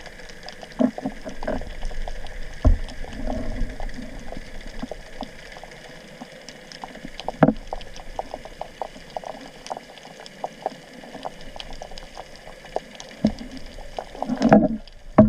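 Underwater sound picked up by a camera in its housing: a steady low hum with scattered crackling clicks and a few louder knocks, most of them in a cluster near the end.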